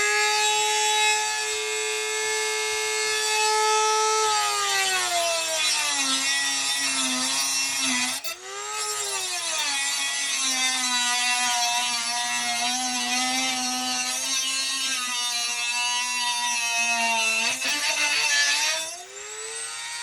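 Small handheld power tool working rust off metal. Its motor whines high, then bogs down to a lower pitch about five seconds in as it bears on the work, frees up for a moment around eight seconds, labours again, and eases off near the end.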